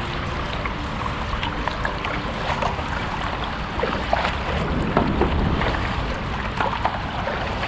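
Water lapping and splashing around a small craft, many small irregular splashes over a low rumble, with wind on the microphone.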